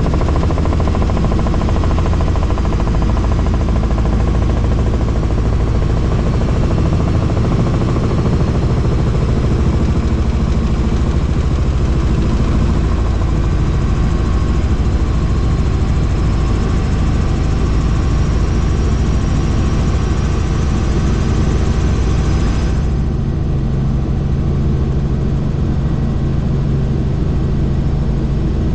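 Helicopter in flight: steady, loud rotor and turbine engine noise. About 23 seconds in, the higher hiss drops away abruptly, leaving a deeper, steadier hum.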